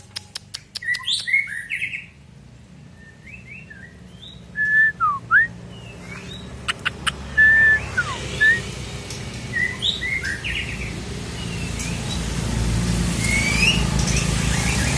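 Murai batu (white-rumped shama) singing in short whistled phrases of clear notes and quick up-and-down glides, opening with a fast run of clicks. A low steady rumble grows louder from about twelve seconds in.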